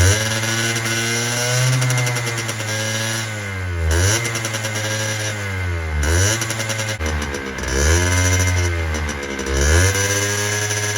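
Honda NSR50's small two-stroke single-cylinder engine running unevenly on a faulty carburetor, its speed wandering up and down and sagging sharply several times before picking up again.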